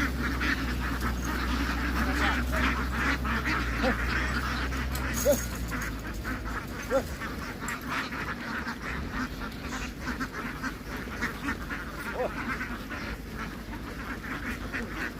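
A large flock of domestic ducks quacking in a dense, continuous chorus. A low steady hum underneath stops about six seconds in.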